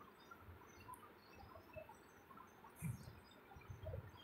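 Near silence with faint, scattered bird chirps, and two soft low thumps near the end.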